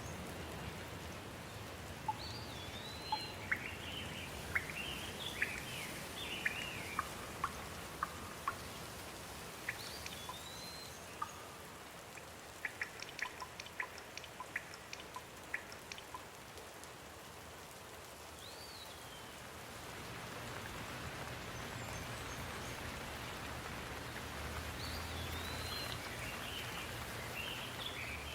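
Steady rain hiss that grows louder in the second half, with birds chirping in short bouts of quick, curving calls over it. A run of sharp ticks comes about halfway through.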